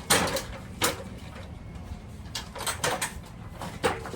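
A few sharp knocks and clatters from parts and tools being handled and set down, over a steady low hum.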